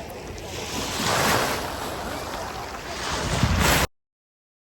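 Sea waves washing onto the shore, swelling twice, with wind buffeting the microphone; the sound cuts off suddenly near the end.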